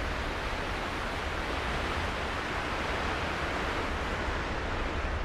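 Steady rushing noise over a deep low rumble, swelling a little in the middle and easing near the end.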